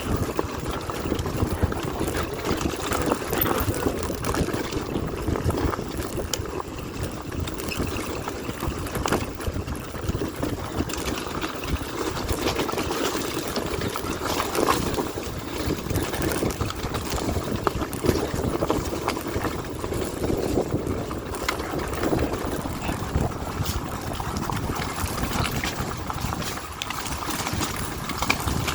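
A dirt bike running, a steady rough engine noise with irregular rattles and knocks throughout.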